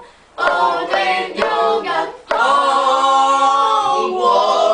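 Cartoonish voices singing an a cappella chant in short, rhythmic phrases, then holding one long sung chord in the second half.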